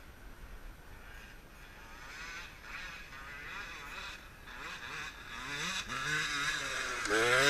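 Motocross dirt bikes running on the track, their engine pitch rising and falling with throttle and gear changes, getting louder as a bike comes close near the end.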